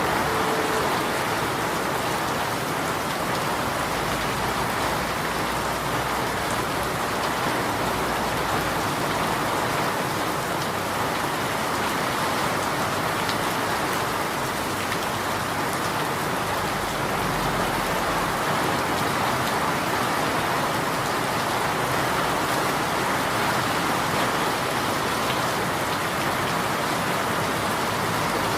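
Steady rainfall, an even hiss of rain with faint drop ticks on a surface.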